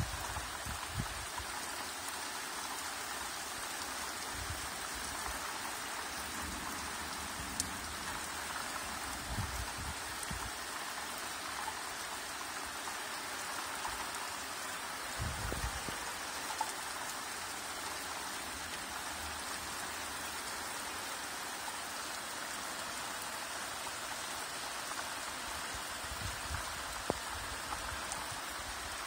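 Steady rain falling, an even hiss of drops on surfaces, with a few soft low thumps and a couple of sharp drip clicks along the way.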